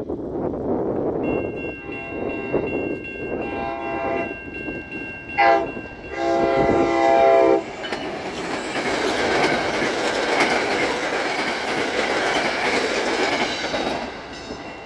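NJ Transit train horn sounding a series of blasts as the train approaches, the loudest a short blast followed by a long one about halfway through. The train then passes close by with a loud steady rush and wheel clatter on the rails.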